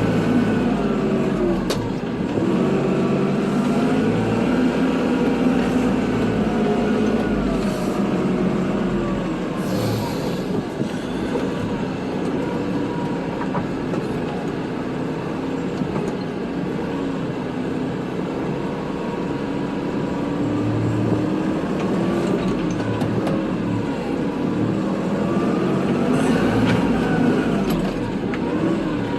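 Kubota tractor's diesel engine running steadily while plowing snow, its pitch rising and falling slowly as the revs change, with a few brief knocks.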